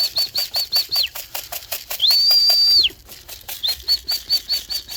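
Whistling to call pigeons down to the loft: a run of short, high whistle notes about five a second, one long held whistle about two seconds in, then the short notes again. Under it runs a fast, even rattling, about six strokes a second.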